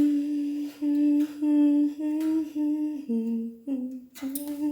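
A person humming a slow tune: a string of short held notes with brief breaks between them, dipping to a lower note about three seconds in.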